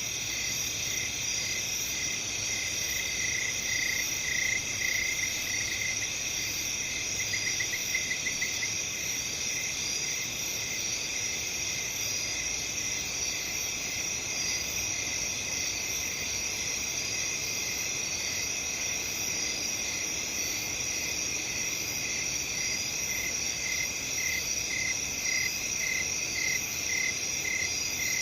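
A chorus of crickets and other insects trilling steadily and high-pitched. A nearer cricket chirps in a regular pulsing rhythm at a lower pitch, with a brief faster trill partway through.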